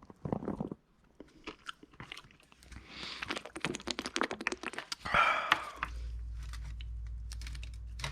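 Small carburettor parts being handled and scraped at a workbench, with scattered clicks and rustling. About five seconds in there is a short, louder burst of hiss, and then a steady low hum starts and keeps going.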